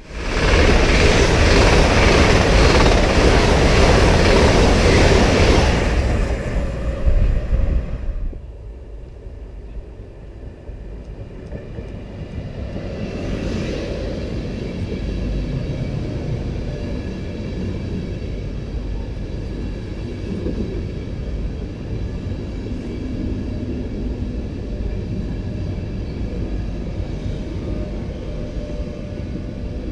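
A loud rushing noise for the first six seconds or so, falling away by about eight seconds. Then a passenger train of Mark 4 coaches rolls slowly along the platform, giving a steady low rumble of wheels on rail with a brief louder rush about 13 seconds in.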